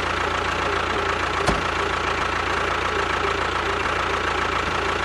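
Steady engine running sound of a miniature DIY tractor-bulldozer, even and unchanging, with one sharp click about a second and a half in.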